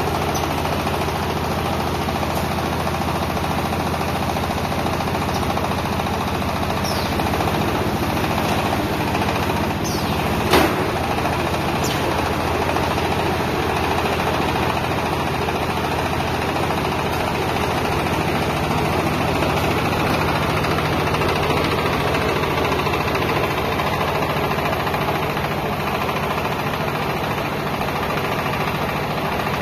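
Heavy machinery running steadily with a low hum, with one sharp knock about ten seconds in.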